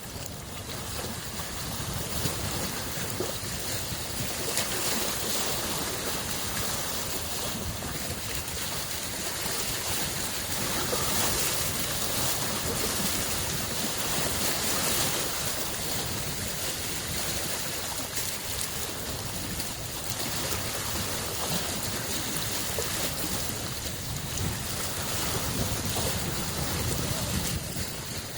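Small lake waves lapping and washing on the shore in a steady noisy wash that swells and eases every few seconds, with some wind on the microphone.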